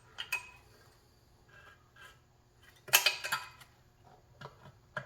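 Metal tools clinking and scraping against a motorcycle wheel rim while a tire is fitted over an inner tube: a sharp clink just after the start and a louder cluster of clattering strokes about three seconds in.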